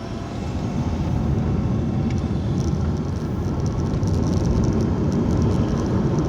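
Car driving along a road: a steady low rumble of engine and tyre noise that grows a little louder about a second in.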